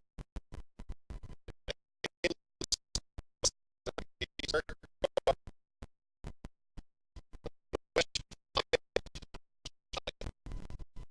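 Broken, glitching recording audio: the sound is chopped into many tiny fragments with dead gaps between them, stuttering like record scratching. This is a faulty audio track.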